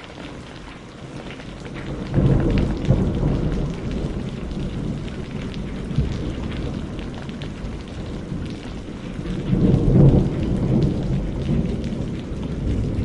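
Rain falling steadily on a greenhouse, with thunder rumbling over it. The thunder builds about two seconds in and swells again around ten seconds.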